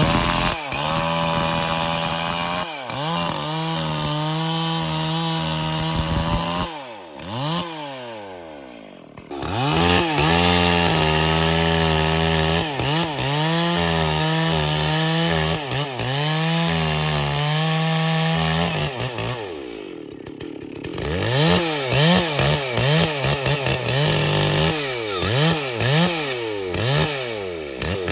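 Stihl MS440 two-stroke chainsaw cutting bayur wood at full throttle in long steady stretches. Twice it drops back toward idle. Near the end it is revved up and down in quick repeated blips.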